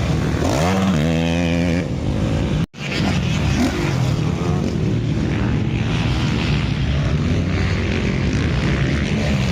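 Motocross bike engines running on the track, one revving up sharply about half a second in. The sound cuts out for a moment just under three seconds in, then the engines carry on.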